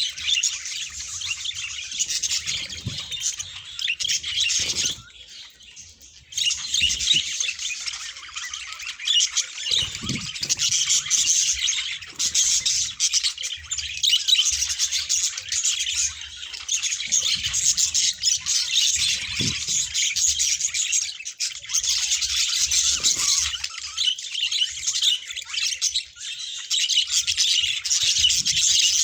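A flock of budgerigars chattering and chirping together in a dense, continuous warble, with a short lull about five seconds in.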